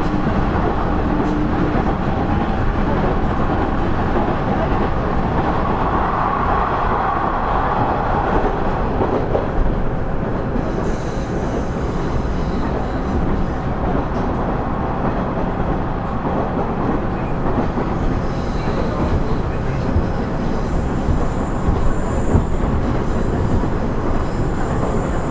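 Running sound of a KiHa 110 series diesel railcar (KiHa 112 car), heard from inside the car: a steady rumble of engine and wheels on the rails.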